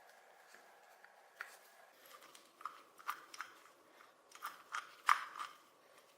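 Irregular sharp clicks and taps of metal parts and tools being handled during restoration work, some with a faint ring, coming thicker after about two seconds, with the loudest tap about five seconds in.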